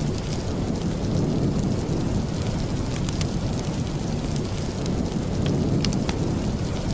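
Steady heavy rain with a deep rumble underneath and scattered sharp ticks.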